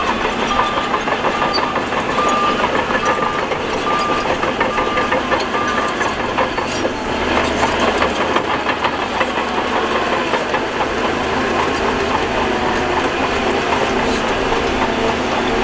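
Heavy earthmoving machinery running with engines under load, with a reversing alarm beeping about twice a second that stops about six seconds in. Steady mechanical rattle and ticking continue after it.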